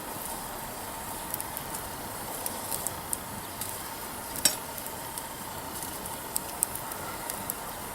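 Wood campfire burning, with a steady hiss and frequent small crackles, and one louder pop about halfway through.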